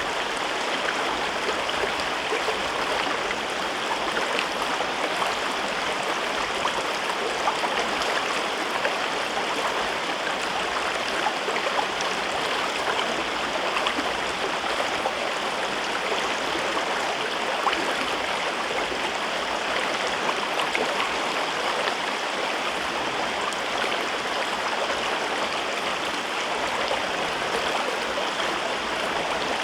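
A river flowing through a rocky gorge: steady, unbroken rushing and babbling of water over rocks, with small splashes flecked through it.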